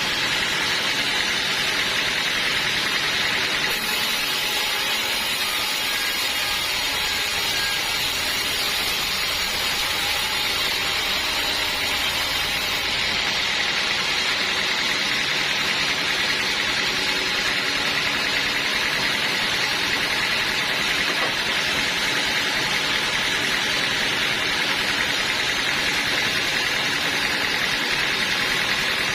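Sawmill running steadily as it saws a teak log, a continuous hiss and whine from the cut over the machine's steady running.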